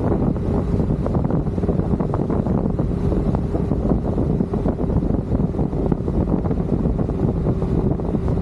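Wind rushing over the camera microphone on a moving motorcycle, a steady dense rumble, with a faint steady engine tone underneath.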